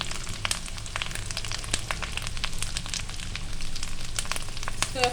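Onion paste, lemongrass, lime leaves and pounded bird's eye chili sizzling as they fry in a pan, with many quick sharp crackles and pops over a steady low hum.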